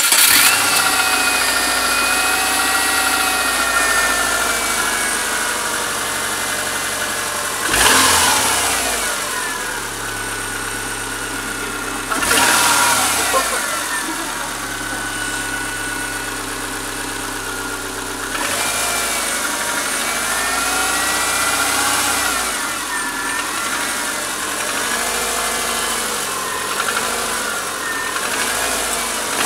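2001 Subaru Forester's EJ25 2.5-litre flat-four engine running just after starting, blipped twice, about eight and twelve seconds in, with the revs then falling back to idle. It carries a clicking noise that the owner finds concerning, though the car has lost no power.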